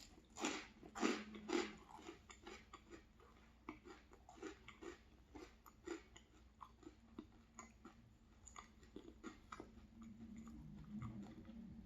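Close-up crunching and chewing of toasted maple bread: three loud crunchy bites in the first couple of seconds, then steady, quieter chewing.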